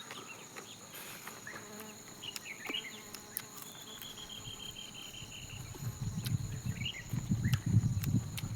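Insects droning in a steady high tone, with short bird chirps and one brief trill. From about six seconds in, a louder low, uneven rumbling noise builds.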